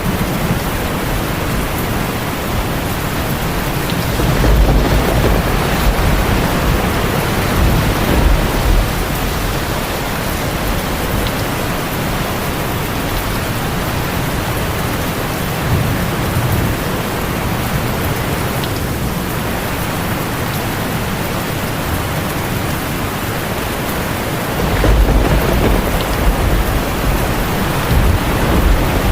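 Heavy rain drumming steadily on a tin roof, with low rolls of thunder swelling about four seconds in, briefly near the middle, and again near the end.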